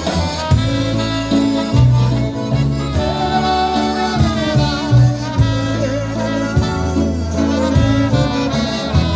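Live polka band playing a slow waltz, an instrumental passage between sung verses, over a steady oom-pah-pah bass.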